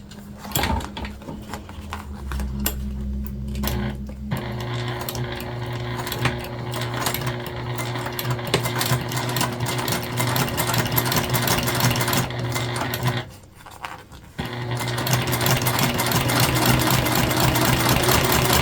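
Electric sewing machine running steadily, topstitching a zipper to a vinyl panel with rapid, even needle strokes. It stops for about a second a little past two-thirds through, then starts again.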